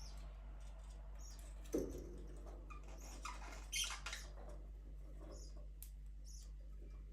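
Budgerigars chirping in short, high squeaks, with a louder flurry of chirps about three to four seconds in and a brief knock just before two seconds in. A steady low hum runs underneath.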